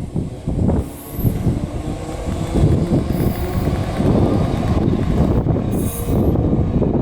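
Merseyrail electric multiple-unit train running at the station, a loud steady rumble with brief high hisses about a second, three seconds and six seconds in.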